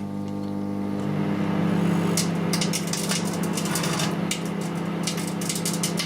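Microwave oven switching on and running with a steady mains hum, while the metal backing of an old mirror inside arcs, giving irregular sharp crackles and snaps from about two seconds in.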